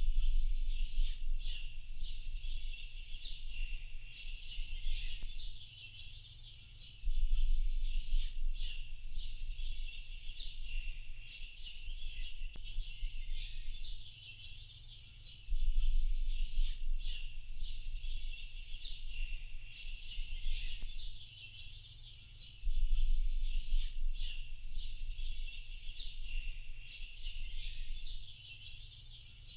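A dense chorus of many small birds chirping and twittering at once, short high calls overlapping continuously. Under it a low rumble comes and goes in stretches of two to three seconds, starting abruptly four times.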